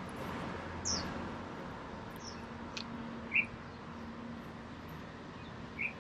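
Quiet street ambience with a steady background hum, over which birds give a few short chirps: several high notes sliding downward and two brief, louder lower notes. A low steady drone joins about halfway through.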